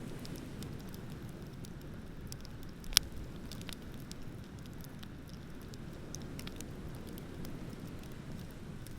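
Beach bonfire crackling with scattered small snaps and one loud pop about three seconds in, over a low steady rumble of ocean waves.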